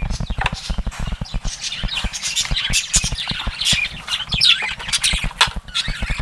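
Caged lovebirds chattering and squawking in rapid short high calls, with frequent low thumps underneath.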